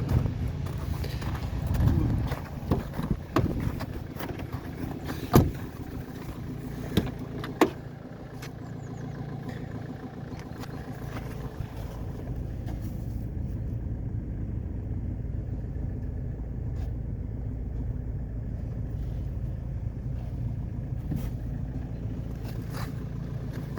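Vauxhall Vectra C's 1.9-litre diesel engine idling with a steady low hum. A few sharp knocks and clunks come in the first eight seconds, the loudest about five seconds in.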